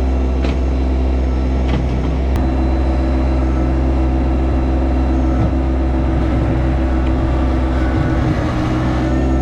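Yanmar SA324 compact tractor's three-cylinder diesel engine running steadily, its pitch dipping briefly twice in the second half. A few light clicks are heard in the first two seconds.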